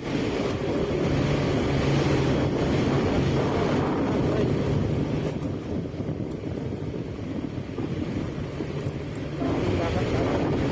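Steady engine hum under a rushing noise of wind on the microphone, as from a moving vehicle.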